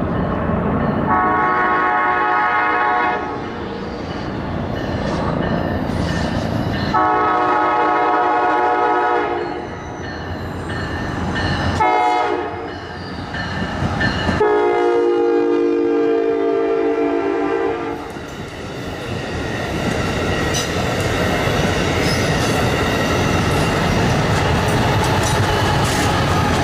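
Amtrak train sounding its multi-tone air horn in four blasts, long, long, short, long, the standard warning pattern, with the last blast the longest. From about 18 seconds in, the train passes with a steady rumble and clickety-clack of wheels on the rails.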